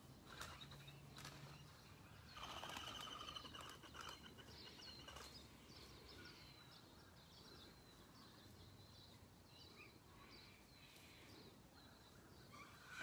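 Faint birdsong: a short trill, then a long string of small chirps repeated about twice a second, with a few soft knocks in the first couple of seconds.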